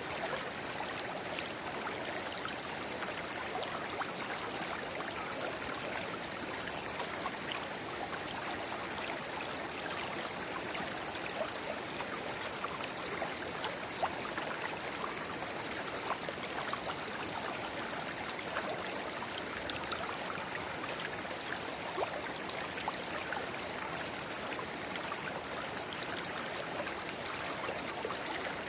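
Shallow river water babbling steadily, with a small spring-fed stream pouring into it, and many small splashes and trickles running through the steady rush.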